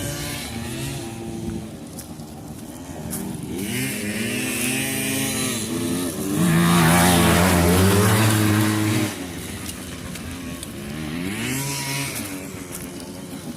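Small dirt-bike engines revving up and down as the bikes race around the track. The engine sound is loudest from about six to nine seconds in, as a bike passes close.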